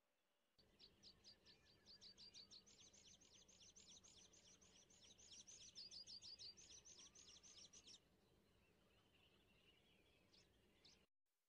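Faint birdsong: a small bird singing a fast trill of short downward-sweeping high notes, about ten a second, starting about half a second in. Near the end it turns to a softer twitter, and the sound cuts off abruptly just before the end.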